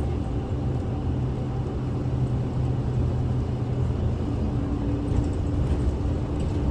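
Inside a Kyoto City bus under way: the diesel engine's steady low hum with road and tyre rumble, a higher engine tone coming in about four seconds in.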